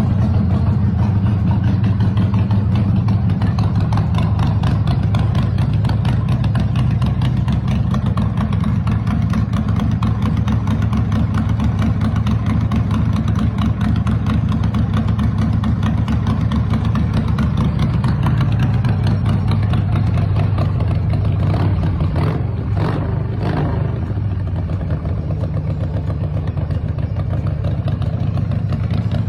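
Custom chopper's 80 cubic inch Evolution V-twin engine running steadily at idle, with two short throttle blips about three-quarters of the way through.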